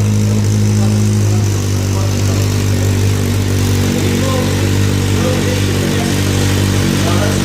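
Kawasaki Z800e inline-four engine running steadily through a Scorpion carbon aftermarket exhaust with the dB killer fitted. The note shifts slightly about a second and a half in, then holds steady.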